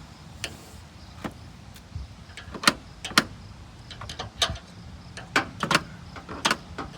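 A series of irregular sharp clicks and knocks, about a dozen or more, the loudest a little under three seconds in and again about half a second later, over a steady low hum.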